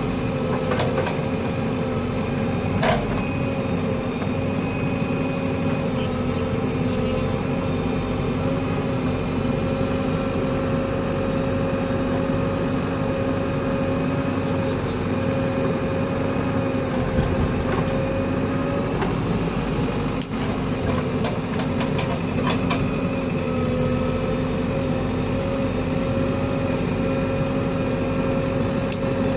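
Diesel engine of heavy construction machinery running steadily at a near-constant pitch, with a few sharp knocks.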